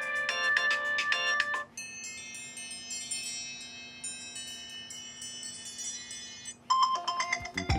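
Apple iPhone ringtones played one after another. A fast run of bright notes ends about two seconds in, followed by a softer passage of layered, held chiming tones. Near the end a new, louder ringtone starts, with a heavy bass beat coming in.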